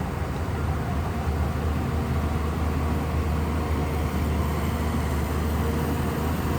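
Shantui bulldozer's diesel engine running steadily, a low drone with a rough noisy layer over it.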